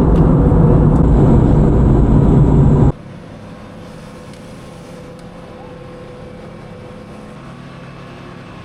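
Vehicle engine noise, loud and steady for about three seconds, then cutting abruptly to a quieter, steady hum.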